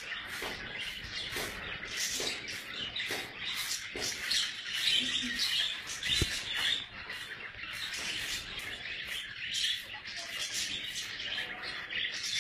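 Small birds chirping rapidly and continuously, with a single thump about six seconds in.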